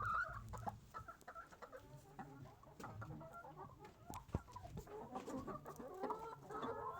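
A flock of laying hens clucking and calling, busier again near the end, with a few sharp taps among the calls.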